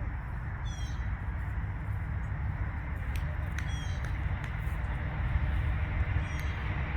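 Steady low outdoor rumble, with a bird chirping briefly three times: about a second in, midway, and near the end.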